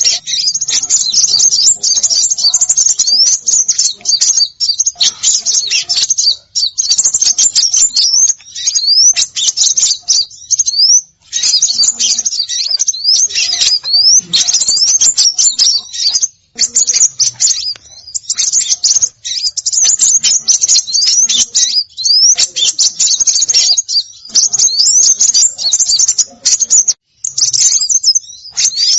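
Small songbirds chattering in a dense, high-pitched stream of rapid chirps and quick rising slurs, in bursts with brief gaps. It is a bird-lure call mix, used to draw small birds in.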